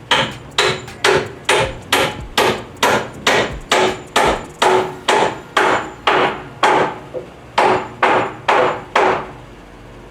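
Hammer driving nails into wooden wall framing: a steady run of about twenty strikes, a little over two a second, each with a short ring, stopping about nine seconds in.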